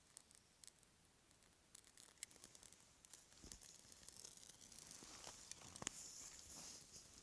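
Faint crackling and rustling as a campfire's birch bark and small kindling sticks are being lit. There are scattered small clicks at first, growing into denser crackling with sharper ticks from about four seconds in.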